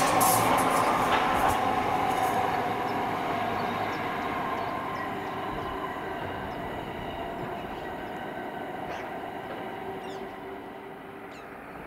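Passenger train running past on the main line and moving away. The wheel-and-rail noise is loud at first, with a few sharp clicks in the first couple of seconds, then fades steadily.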